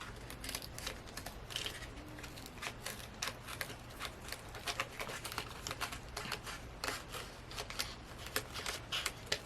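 Hands prying and working at tight plastic packaging, giving faint, irregular small clicks and crinkles.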